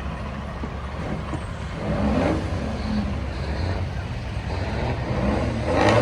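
A motor vehicle's engine running steadily with a low rumble, with a brief voice about two seconds in and again near the end.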